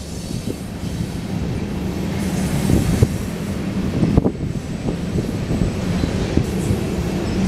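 Union Pacific coal train's loaded coal cars rolling past: a steady rumble of steel wheels on rail, with a few sharp clacks as wheels cross rail joints.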